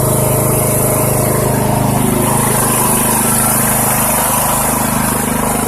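Poulan Pro riding lawn tractor's engine running steadily, just started for the first time after the off season.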